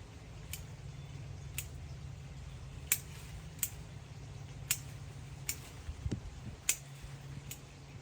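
Hand pruning shears snipping: about eight short, sharp clicks at uneven spacing, roughly one a second, over a low steady hum.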